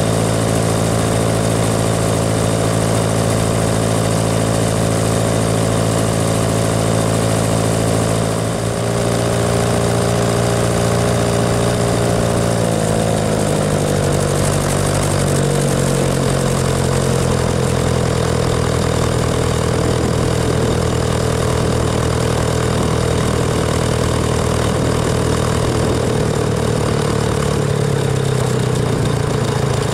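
Tractor engine running steadily under way on the road. The sound dips briefly about eight seconds in, and the engine note then falls lower around halfway through.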